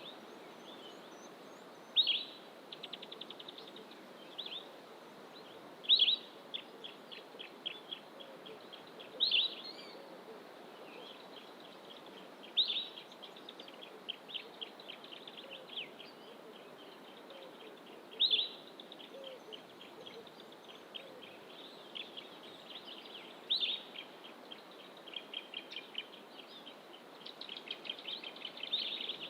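A bird calling again and again, each time a loud sharp note followed by a rapid run of short ticking notes, about every four to five seconds, over a steady outdoor background hiss.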